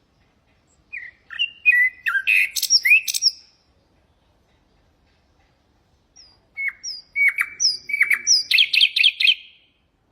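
Nightingale singing two song phrases, about three seconds apart. Each phrase is a run of whistled notes that ends in a fast, rattling series of repeated notes.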